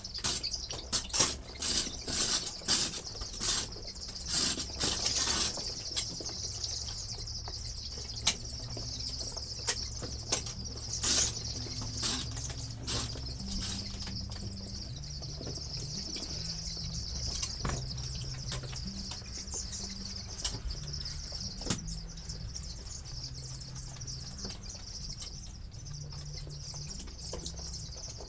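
A flock of broiler chicks cheeping in a steady chorus, with a run of short, sharp rustling strokes through roughly the first dozen seconds that then thin out.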